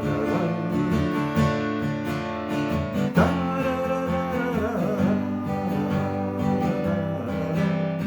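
Acoustic guitar strummed and picked steadily in an instrumental break of a folk song.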